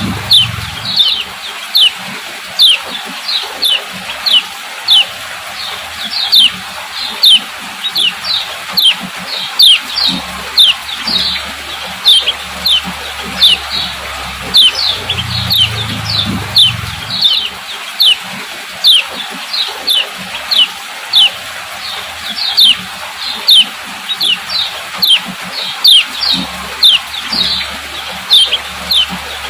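Female kecial kuning (a white-eye) giving its 'ciak ciak' call: short, high, falling chirps repeated steadily at about one to two a second.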